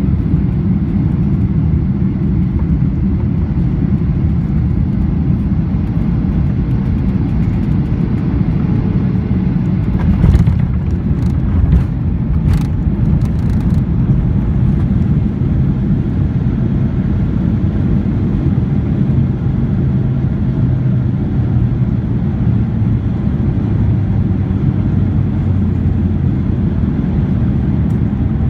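Steady low rumble inside the cabin of a Boeing 737-800 on the ground, its engines running and the airframe rolling after landing. A few brief knocks and rattles come about ten to fourteen seconds in.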